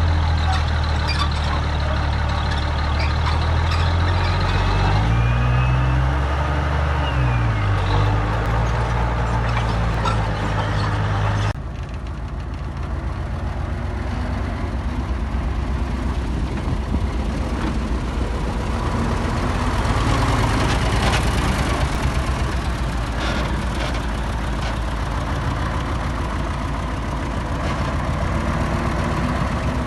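Heavy diesel earthmoving machinery running under load. The engine pitch dips and climbs back about six to eight seconds in. About eleven seconds in the sound changes abruptly to another diesel engine running steadily.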